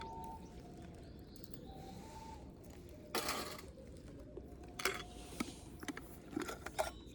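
Light clicks and knocks of tableware and utensils being handled, with a short rustle about three seconds in.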